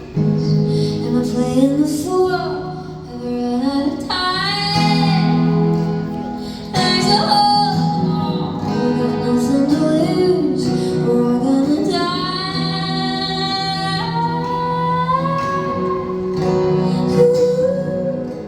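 Acoustic live music: a female voice singing long held and gliding notes over acoustic guitar chords.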